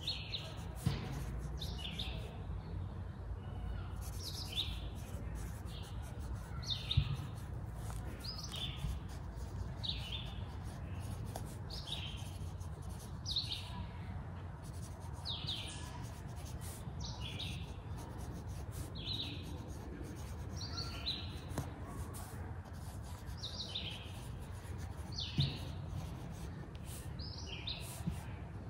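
A bird chirping over and over, a short high note falling in pitch about once a second, over a steady low outdoor rumble.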